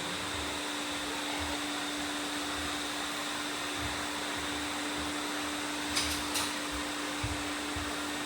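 Robot vacuum cleaners running: a steady whirring hum with a constant tone, and two short clicks about six seconds in.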